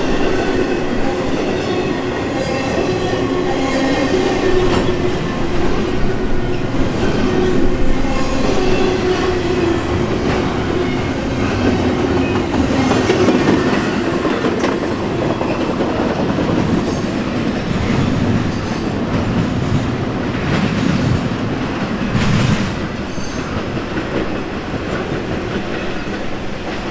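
Freight cars of an intermodal container train rolling past: steady wheel-on-rail noise with a faint continuous whine and occasional knocks from the wheels.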